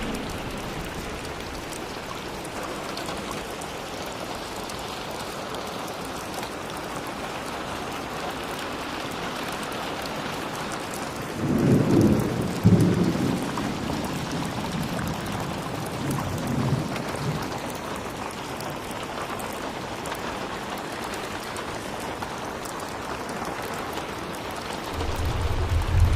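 Steady rain falling, with a low rumble of thunder about twelve seconds in that fades over a few seconds, and another rumble beginning near the end.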